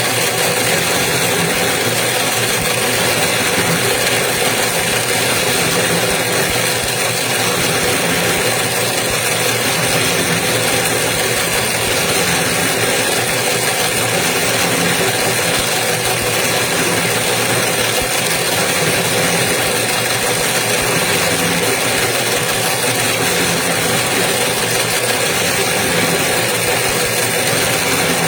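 Toroidal transformer coil-winding machine running steadily: an even, continuous motor drone that does not change in speed or loudness.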